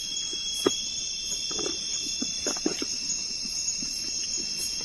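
Steady, high-pitched chorus of night insects such as crickets, with a few short soft knocks and rustles scattered through it.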